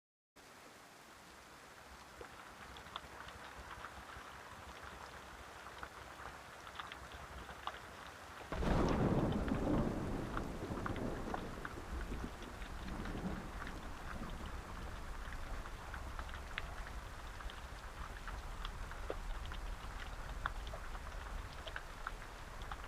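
Steady rain with scattered drips, then a sudden clap of thunder about eight and a half seconds in that rolls on as a low rumble, the rain continuing louder afterwards.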